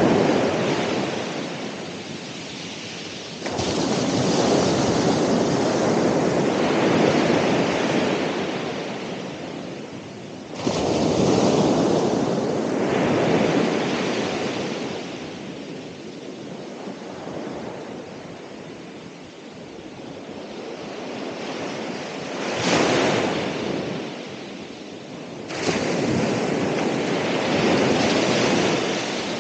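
Ocean waves breaking on a shore: a steady rush of surf that swells and fades, with several waves crashing in suddenly, about every few seconds, and dying away between them.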